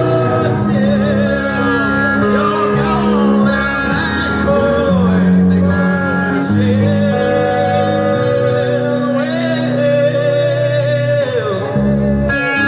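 Live rock band playing, with a male voice singing over distorted electric guitar, bass and drums.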